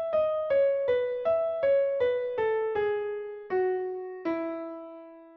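Piano playing a single melody line, one note at a time, stepping mostly downward over about a dozen notes. The last note is held and fades out.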